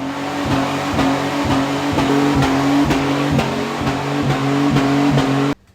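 Car engine held at high, steady revs, as in a burnout or skid, with regular pulses through it; it cuts off abruptly near the end.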